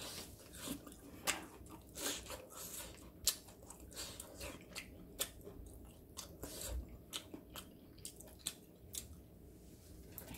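A person chewing crispy battered tempura of dandelion, rapeseed flowers and fatsia shoots close to the microphone: irregular crunches and crackles, a few a second.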